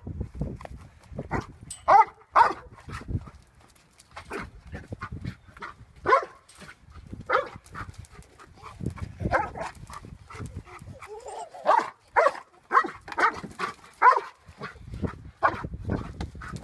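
A dog barking repeatedly in short, irregular barks, several in quick pairs.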